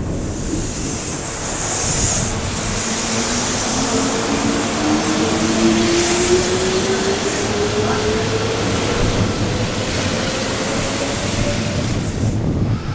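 Kintetsu electric train passing close by and pulling away. Its traction motors give a whine that climbs steadily in pitch as the train accelerates, over the rumble and hiss of the running train. The high hiss cuts off about twelve seconds in.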